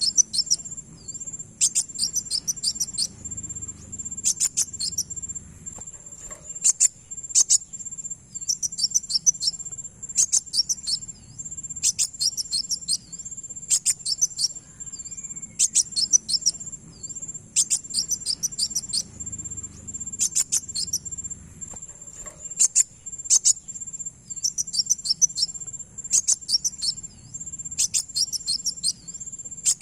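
Kolibri wulung sunbird calls: clusters of rapid, high, twittering chip notes repeated every second or two over a steady high-pitched trill.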